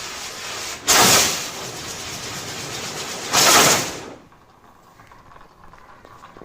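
Firework rockets taped to a ceiling fan's blades firing: a loud rushing hiss that surges about a second in and again about three and a half seconds in, then dies away about four seconds in as the rockets burn out.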